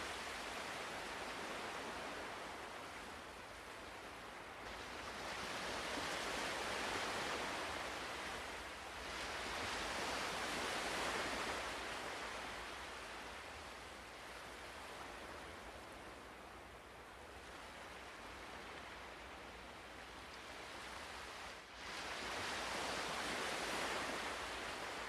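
Ocean surf: a steady rushing hiss that swells and ebbs every few seconds as the waves come in, with a brief sudden dip a few seconds before the end.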